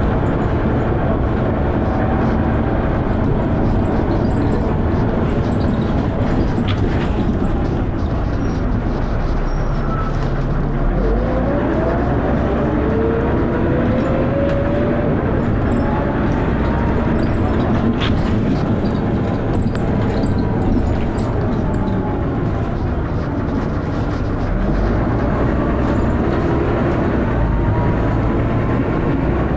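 Dennis Arrow double-decker bus engine and drivetrain running with lots of thrash while under way. The pitch climbs as it pulls away about ten seconds in, then falls, and it climbs again near the end.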